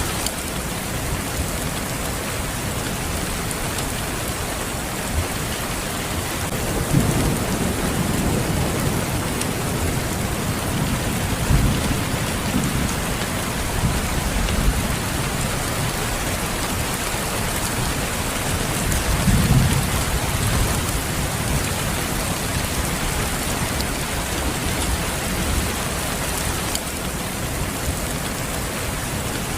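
Steady rain falling, with low rolls of thunder rumbling about a quarter of the way in and again about two-thirds of the way in.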